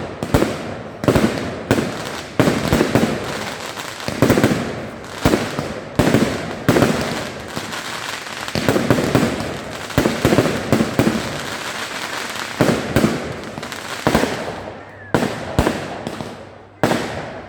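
Fireworks display: a rapid, near-continuous run of overlapping bangs, thinning to a few separate bangs in the last few seconds.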